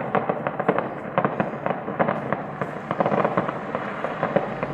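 Fireworks going off: a dense, irregular run of sharp pops and bangs, several a second, with no let-up.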